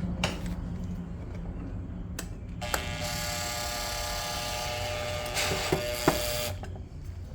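A small electric motor whirring steadily for about four seconds and then stopping, with a few sharp clicks before and around it.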